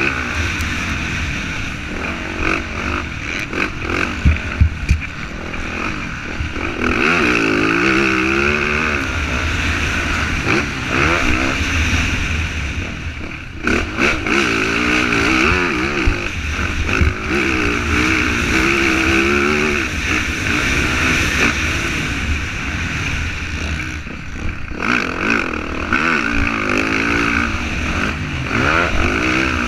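Motocross dirt bike engine being ridden hard, its revs rising and falling again and again, over a steady low rumble, with a few sharp knocks about four seconds in.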